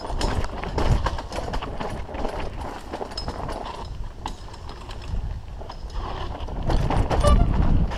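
Mountain bike clattering over a rough, technical trail section: a continuous rattle of frame, chain and tyres with many sharp knocks from rocks and roots, over a low rumble. It gets rougher and louder about seven seconds in.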